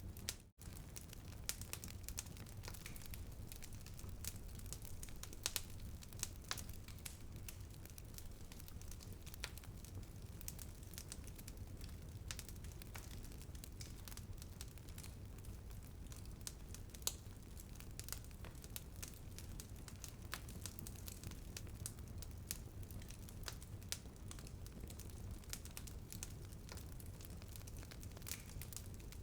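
Wood fire crackling and popping in a fireplace: irregular sharp snaps over a steady low rumble, with the sound cutting out for a moment about half a second in.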